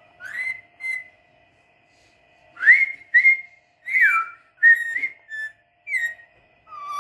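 A pet parrot whistling a tune in short separate notes, some sliding up and some gliding down, with a pause of about a second before a faster run of notes.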